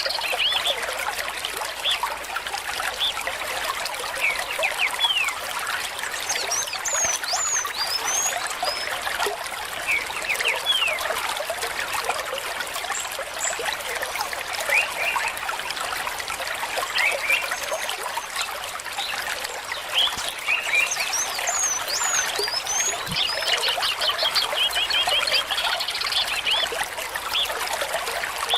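Small stream trickling and gurgling steadily, with short high chirps about seven seconds in and again past twenty seconds.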